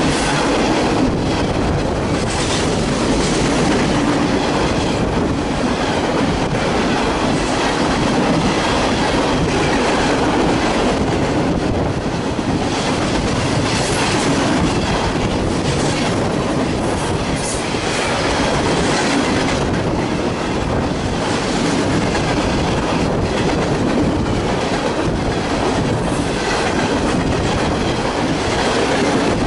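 A CSX freight train's boxcars and refrigerator cars rolling past: a steady rumble of steel wheels on rail with irregular clicking over the rail joints.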